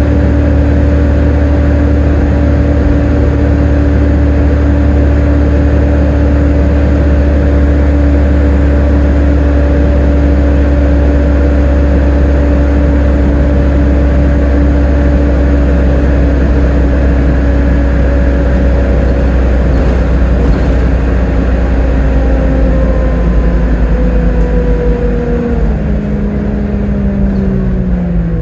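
Volvo B7TL double-decker bus running under way, its drivetrain giving a steady whine that falls in pitch over the last few seconds as the bus slows.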